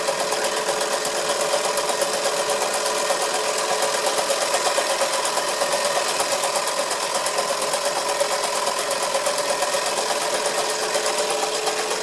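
Wilesco D141 toy live-steam engine running steadily, driving belt-driven model workshop tools: a fast, even mechanical clatter with a steady tone over it.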